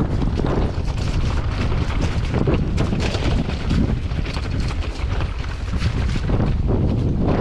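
Strong gusty wind buffeting the microphone: a loud, uneven rumble.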